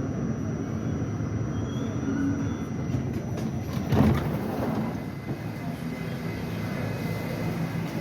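New York City Subway R68 train running on the tracks, a steady low rumble with a faint high whine that stops about three seconds in. About four seconds in there is one loud knock, with a short rattle after it.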